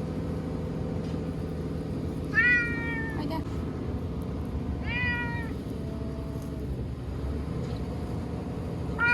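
Frightened stray cat meowing, two drawn-out calls with slightly falling pitch, about two and a half and five seconds in, and a third starting at the very end, over a steady low background noise. The cries are those of a scared cat confined and not yet settled.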